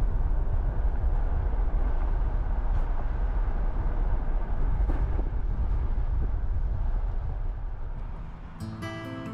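Steady low rumble of a moving vehicle, road and wind noise, fading near the end as background music with clear notes comes in.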